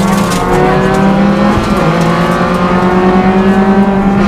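Rally car engine running hard under load, heard from inside the cabin; its pitch dips once a little under two seconds in, then climbs steadily as the car accelerates.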